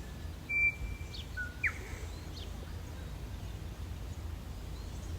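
Birds calling: a few short whistled notes in the first two seconds, one of them rising sharply, then fainter chirps, over a steady low rumble of outdoor noise.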